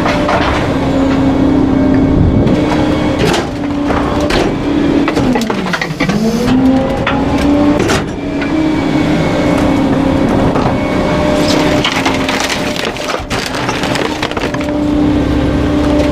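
Garbage truck packer crushing bulky waste: the engine runs at a steady high pitch while items crack and snap under the blade. Around five to six seconds in the engine pitch sags under the load, then climbs back.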